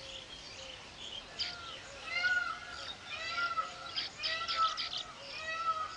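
Weaver birds calling: a run of short, arched chirps repeating about once a second, with brief scratchy clicks mixed in.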